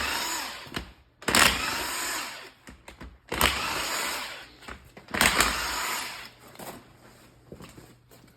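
A handheld power tool running in four short bursts of about a second each, backing bolts out of a TMR mixer gearbox housing, with quieter clicks and clinks of metal near the end.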